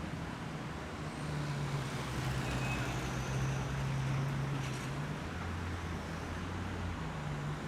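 Car engine idling steadily, its idle pitch stepping down slightly about a second in and again about five seconds in.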